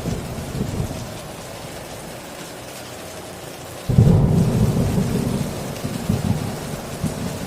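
Heavy rain pouring steadily while thunder rolls. A rumble dies away over the first couple of seconds, then a sudden loud thunderclap breaks about halfway through and rolls on in waves.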